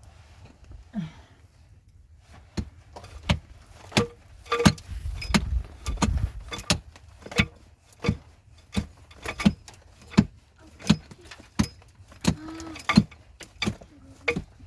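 A digging tool strikes the ground over and over at a steady pace, about three blows every two seconds, starting about two seconds in.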